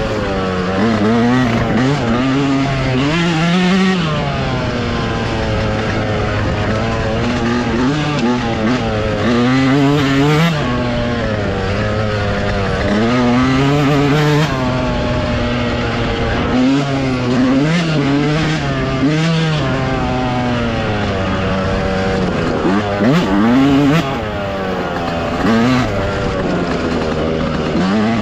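Dirt bike engine running under way, its pitch revving up and falling back again and again.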